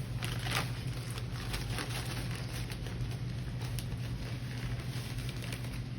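Brown sugar being scooped and packed into a half-cup measuring cup: light irregular scraping and clicking, busiest in the first couple of seconds, over a steady low hum.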